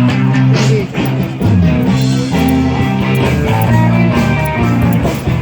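A rock band playing a guitar-driven instrumental passage over steady bass notes, with no singing.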